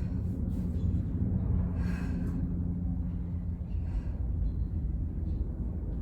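A woman breathing hard from exertion, with short, sharp exhalations about two seconds in and again about four seconds in, over a steady low hum.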